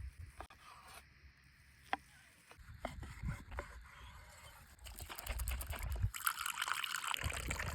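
Liquid trickling and pouring, growing louder about five seconds in, after a few light clicks and knocks.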